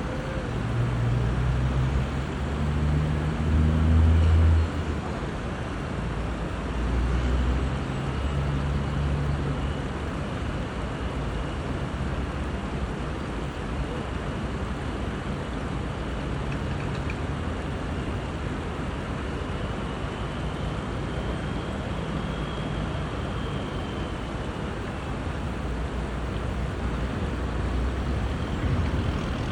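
Steady rush of river water near rapids, with low thumps of wind buffeting the microphone, strongest in the first few seconds.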